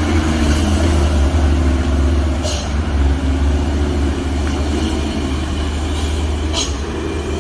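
Heavy road vehicle's engine running with a steady low drone, with two short high hisses, about two and a half and six and a half seconds in.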